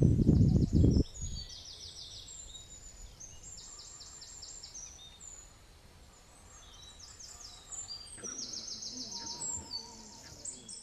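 Small birds singing, several high, fast trills of rapidly repeated notes with short whistles between them. A loud low noise fills the first second.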